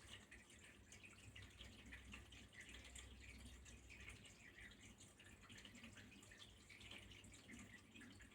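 Faint water trickling and dripping in a steady, irregular patter.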